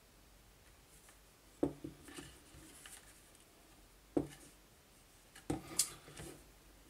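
Hand work on a miter saw's electric motor while trying to free a carbon brush: four sharp knocks, the last two close together near the end, with light scraping and rubbing of parts between them.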